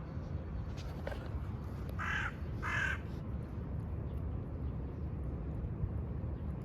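An animal calling twice in quick succession, two short harsh calls about two seconds in, over a steady low rumble.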